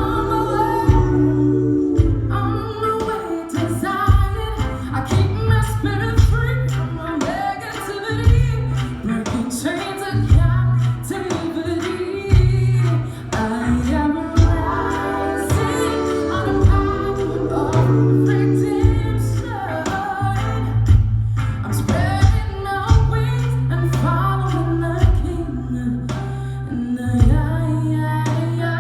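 A female soul singer singing a song over accompaniment, with sustained low bass notes and frequent short beats.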